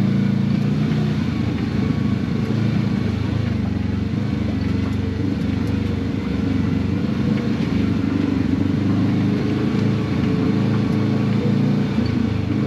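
Side-by-side UTV engine running steadily while driving along a trail.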